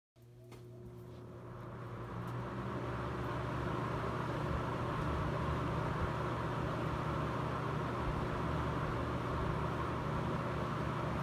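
1980s Eagle Aire EA203 20-inch box fan with a Marco motor, spinning up: a steady motor hum and a rush of air that build over the first few seconds, then run steadily at speed.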